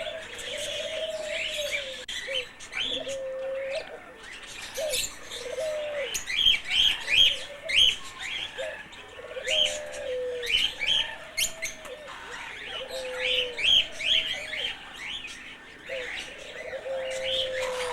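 Doves cooing over and over in low, arching calls, with a crowd of small birds chirping sharply above them; the chirping is loudest about a third of the way through.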